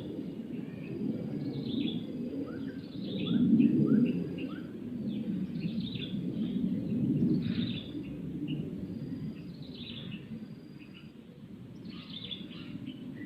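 Small birds chirping, short calls repeated every second or so, over a low rumble that swells twice and then slowly fades.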